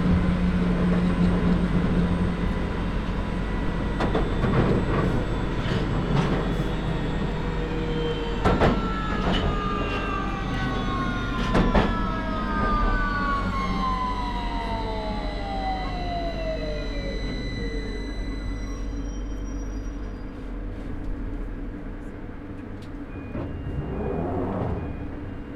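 London Underground 2009 Stock (Bombardier) train heard from on board, running through the tunnel with a steady low rumble and a few sharp knocks. Its traction motor whine falls steadily in pitch over about ten seconds as the train brakes for the next station, and the overall noise quietens as it slows.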